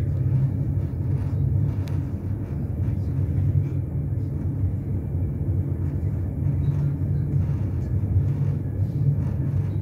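Steady low running rumble of the Enterprise train heard from inside a De Dietrich passenger carriage: the wheels running on the rails at speed.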